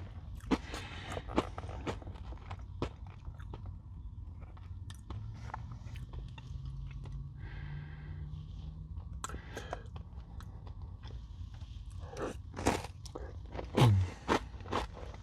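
Close-up crunching and chewing of a Nature Valley crunchy granola bar dipped in yogurt and whipped cream: irregular crisp crunches, loudest near the end.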